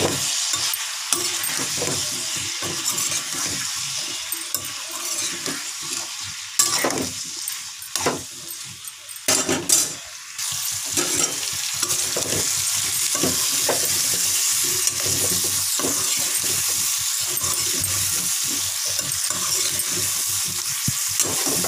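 Potato and cauliflower pieces sizzling steadily as they fry in oil in a kadhai, while a metal spoon stirs them, scraping and knocking against the pan, with a few louder knocks in the middle.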